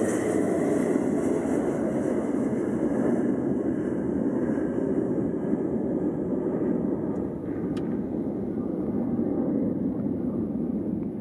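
Airliner engine noise: a steady rumble whose higher hiss fades over the first few seconds as the aircraft moves off.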